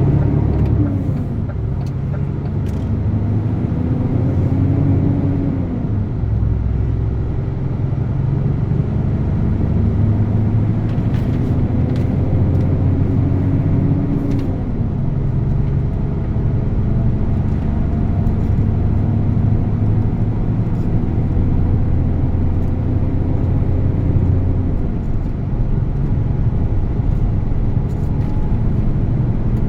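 DAF truck's diesel engine running while driving, its pitch climbing slowly and then dropping back a few times as the gears change.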